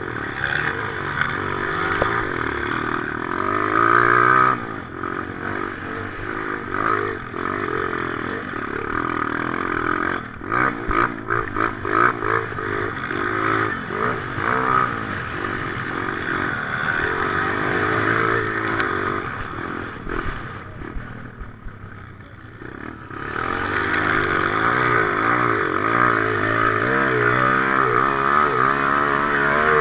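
Motocross motorcycle engine racing, its pitch rising and falling over and over as the throttle is opened and shut through the gears, with rattling from the bike. It eases off briefly about three-quarters of the way through, then pulls hard again. Heard from a helmet-mounted camera on the rider.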